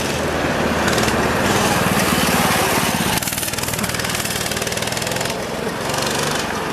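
Mini bike's small engine running steadily, a fast even buzz of firing pulses.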